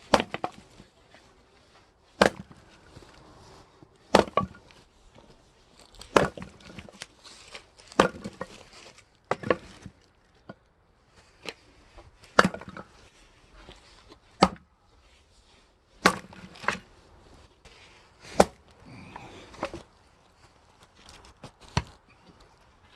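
An axe splitting firewood rounds: about a dozen sharp chopping strikes into wood, roughly every two seconds, with lighter knocks and clatter of split pieces between them.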